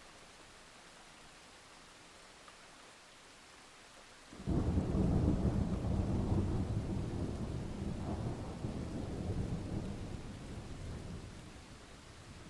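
Thunderstorm: steady rain, then about four seconds in a clap of thunder breaks in suddenly and rolls as a loud low rumble, fading away over the next several seconds.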